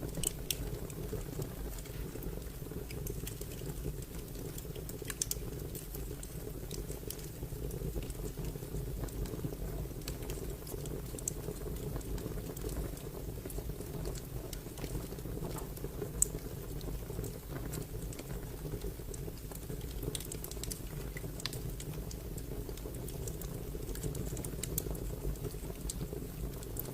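Fire crackling: a steady low rumble of flames with irregular sharp snaps and pops, a few of them louder, one near the middle standing out most.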